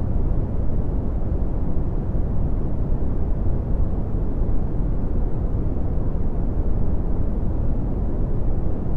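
Red (Brownian) noise: a steady, deep rumbling hiss with most of its power in the bass, fading off toward the treble, unchanging throughout.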